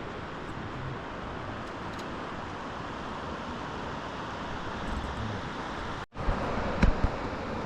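Steady rush of flowing water from a mountain river or waterfall, cut off for an instant about six seconds in, followed by a couple of low thumps.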